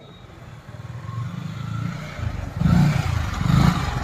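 A motorcycle engine running, with a low rumble that builds and then swells up twice near the end, like two blips of the throttle.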